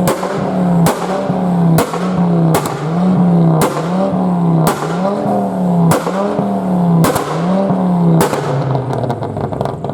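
Car engine revved again and again, about once a second, a sharp crack at the start of each rev as the note sweeps up and falls back; it settles to a lower, steady note about eight seconds in.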